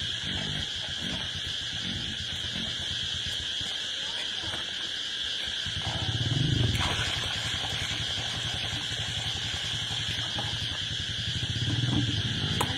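Steady high-pitched insect chorus, with two short low sounds about six and twelve seconds in.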